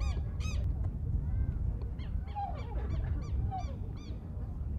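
Birds calling in quick repeated short notes, a rapid run of them at the start and more scattered calls later, with a few lower calls in the middle. A steady low rumble runs underneath.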